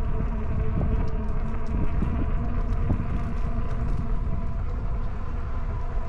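Electric bike's hub motor whining at a steady pitch while riding, over a low rumble of wind on the microphone, with scattered light ticks.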